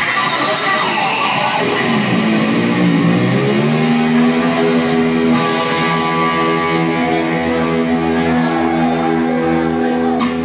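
Live rock band playing an instrumental passage led by electric guitar: a pitch that swoops down about two to three seconds in, then long held notes over the band.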